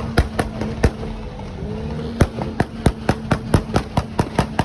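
A rapid, irregular string of sharp pops, about three to five a second, over a steady low drone.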